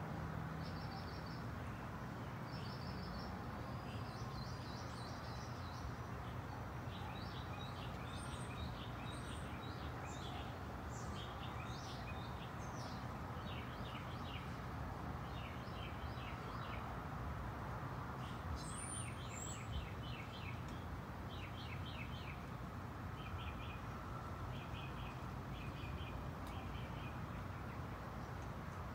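Small birds chirping in short, rapid bursts of high notes, repeated many times, over a steady low outdoor background noise.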